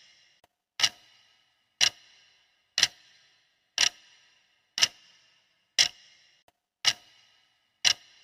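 Clock ticking, one sharp tick a second with a short ringing tail, steady and even.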